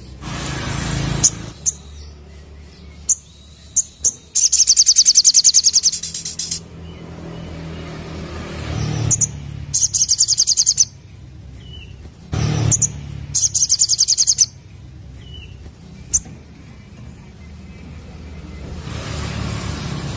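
Sogok ontong (spiderhunter) singing: three fast, high-pitched trills of about one to two seconds each, with short sharp single notes between them.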